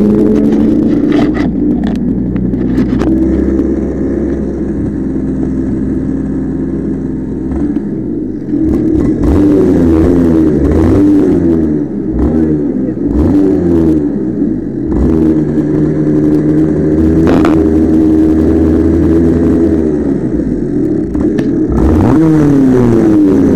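Engine of a vehicle being driven hard, its revs repeatedly rising and falling as it accelerates and slows.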